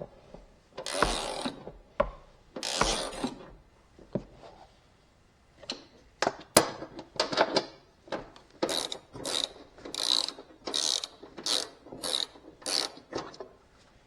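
Hand ratchet wrench working a bolt: a few long strokes at first, then after a pause a steady run of short ratcheting strokes, about one and a half a second.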